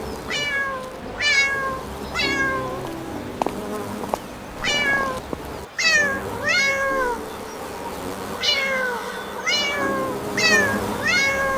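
A cat meowing over and over, about ten cries, each falling in pitch, with a low buzzing hum coming and going underneath.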